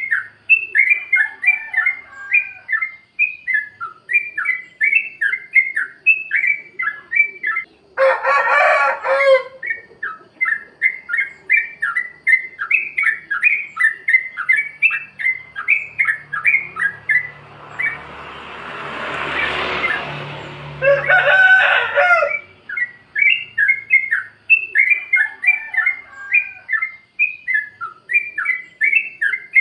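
Yellow-vented bulbul (trucukan) singing its bubbly 'plik plok' song, a quick run of short, liquid notes repeated over and over. About eight seconds in and again near twenty-one seconds, a louder, harsher call lasting a second or so cuts in. Around eighteen to twenty-one seconds a rush of noise swells and fades under the song.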